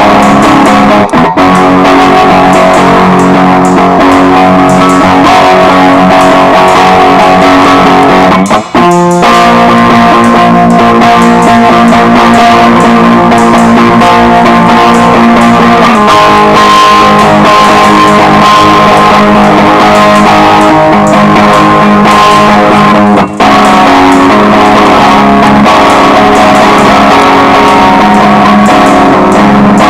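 Loud instrumental band rock music, with electric guitars strummed over bass and drums. The sound drops out briefly about 9 seconds in and again about 23 seconds in.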